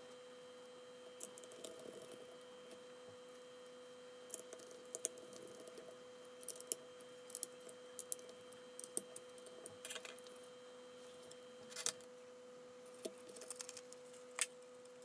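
Scattered light clicks and taps of small parts being handled on a workbench, over a faint steady hum.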